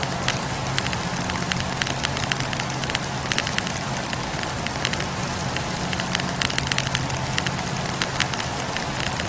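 Wood campfire burning: a steady low roar of flames with frequent sharp crackles and pops from the burning logs.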